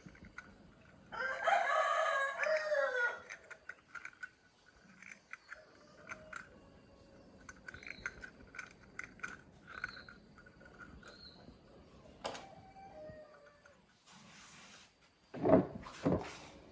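A rooster crows once, about a second in, a pitched call of about two seconds that falls at the end. Near the end come two loud knocks.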